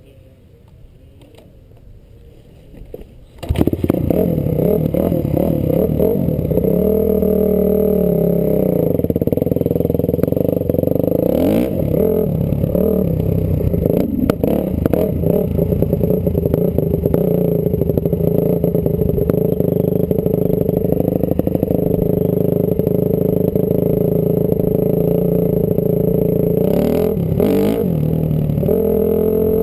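Honda CRF250R's single-cylinder four-stroke motocross engine, heard from a helmet camera, running hard with the revs repeatedly dropping and climbing again. It comes in suddenly loud about three and a half seconds in, after a quieter start.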